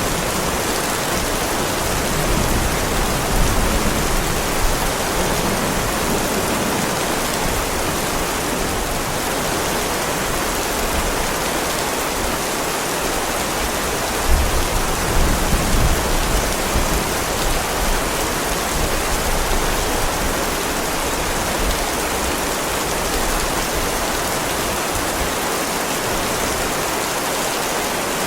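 Heavy rain falling steadily on a driveway, an even hiss of rain on pavement. A brief low rumble rises under it about halfway through.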